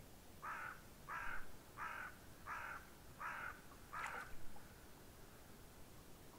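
A bird giving six short, rough calls in a steady series, about three calls every two seconds.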